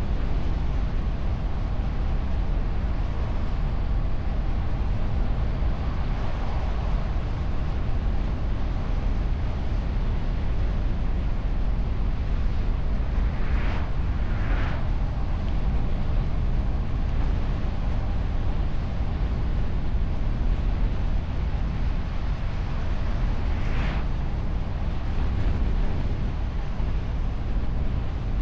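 Steady wind and road rumble of a car on the move, picked up by a camera mounted on the bonnet behind a wind muff. There are brief short whooshes about halfway through and again near the end.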